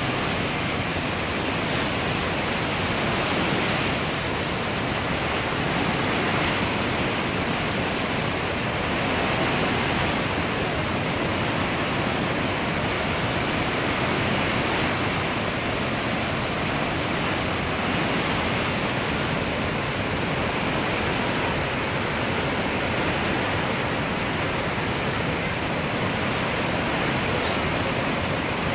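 Swollen river in flood, its fast, high water rushing steadily.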